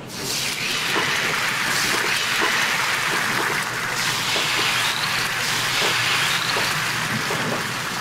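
Beaten egg sizzling steadily as it is poured into hot, oiled rectangular tamagoyaki pans over gas burners.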